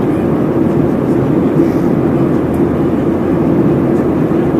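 Steady engine and airflow noise of a Boeing 737-700 in flight, with its CFM56-7B turbofans, heard from inside the passenger cabin as an even, unbroken rumble.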